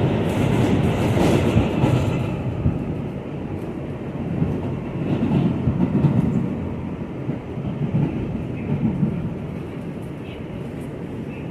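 New York City subway train on the (A) line running on the rails: a steady rumble that swells and eases, with a higher hiss in the first couple of seconds.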